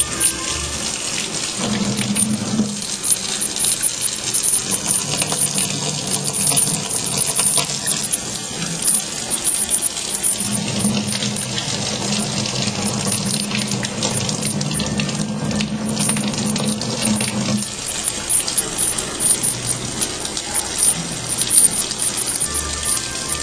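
Water running steadily from a tap into a sink, splashing.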